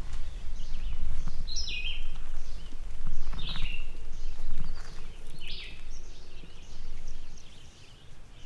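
A bird giving short, harsh calls that drop in steps, three strong ones about two seconds apart with fainter calls between, over a low rumble with scattered knocks.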